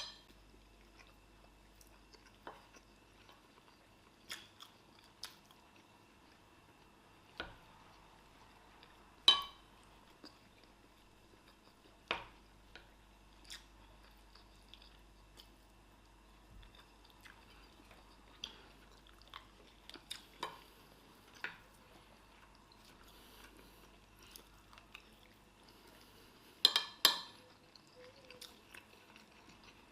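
People eating fast from plates of jollof rice, moimoi and grilled chicken: quiet chewing and biting, broken by scattered short sharp clicks and knocks. The loudest come about nine seconds in and in a quick cluster near the end.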